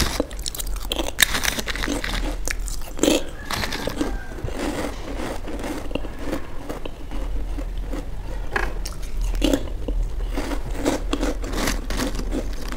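A person biting into and chewing crispy fried chips, a quick run of crunches that goes on without a break.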